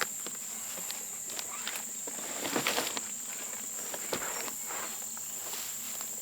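Steady high-pitched drone of insects such as crickets, with footsteps and rustling through the forest floor; the loudest rustle comes about two and a half seconds in.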